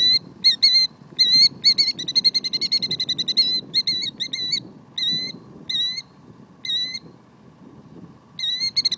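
Killdeer calling: sharp, high-pitched call notes repeated every half second or so, breaking into a rapid run of calls about two seconds in and again near the end.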